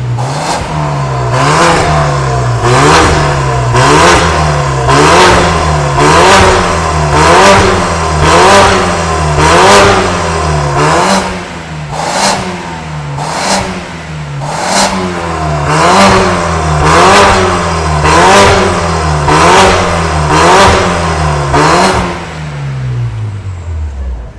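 BMW F10's turbocharged engine revved in quick repeated blips, about one a second, through a full stainless steel exhaust with custom downpipe and valved system. Each rev has a sharp burst of noise at its peak, and near the end the revs drop away.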